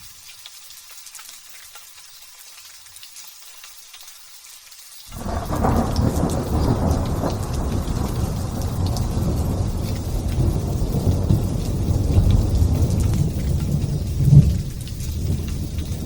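Light rain hissing, then about five seconds in thunder breaks out suddenly and rolls on as a long low rumble over the rain, with a sharper, louder crack near the end.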